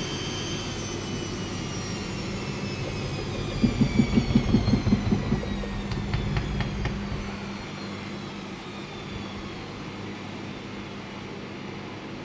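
Washing machine motor and drum spinning down: a whine falls steadily in pitch. About four seconds in comes a burst of rapid rhythmic thumping, and after that a steady low hum.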